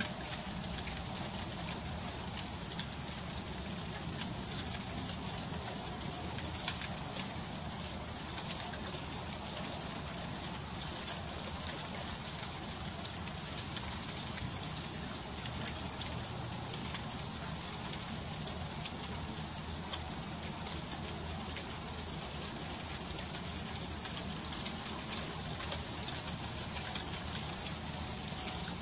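Freezing rain falling steadily as a dense hiss of fine ticks and pattering on icy surfaces, with a low steady rumble underneath.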